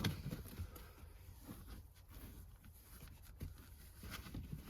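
Faint handling sounds of a razor blade cutting through a carpet liner, with scattered small ticks and a sharper click at the start.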